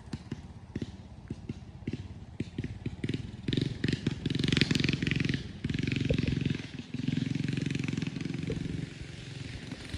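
Straight-piped 4 hp Briggs & Stratton flathead single-cylinder minibike engine, firing unevenly with separate pops for the first few seconds, then revving up in several surges with brief drops between them.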